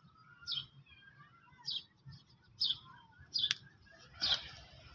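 Faint, scattered chirps of small birds, about six short high calls a second or so apart, with one sharp click about three and a half seconds in.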